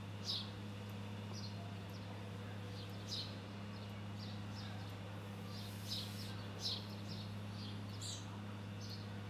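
Birds chirping: short high notes at irregular intervals, roughly one or two a second, over a steady low hum.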